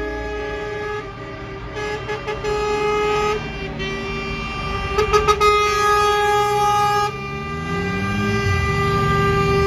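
Several truck air horns sounding together in overlapping held notes, with quick repeated toots about two and five seconds in, over running truck engines; near the end an engine revs up.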